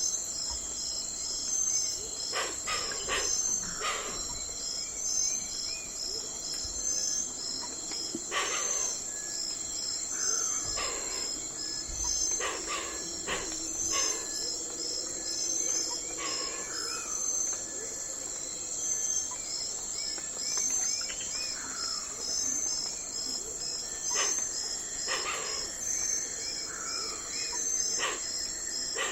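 Night forest ambience: a steady high chorus of insects chirping in an even pulse, with short falling bird calls repeated every few seconds and occasional sharp clicks.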